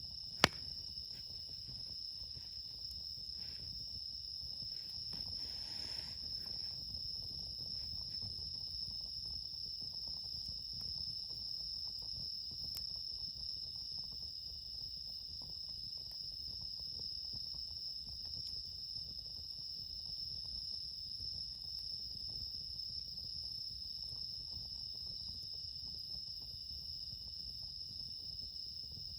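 Crickets, including bell crickets (suzumushi), singing steadily in a high-pitched chorus. A single sharp snap comes about half a second in.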